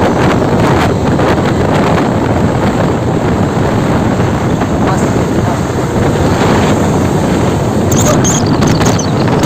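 Steady, loud truck and road traffic noise with wind buffeting the microphone, and a few brief high-pitched sounds near the end.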